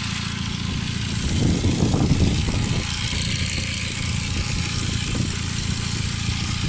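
Audi TT 1.8T turbocharged four-cylinder engine idling with the bonnet open, with wind gusting on the microphone. The turbo has failed, but at idle its fault is not heard; the owner says it only shows when the engine is revved.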